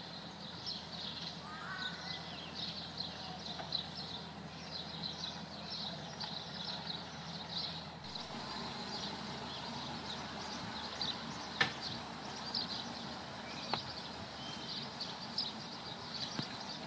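Birds singing in quick runs of high chirps over the low, steady running of a passing narrowboat's engine. Two sharp ticks come in the second half, about two seconds apart.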